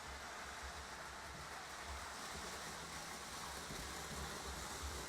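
Lionel O-gauge model trains, a freight train and a trolley, running on three-rail track: a steady rumble of wheels and motors.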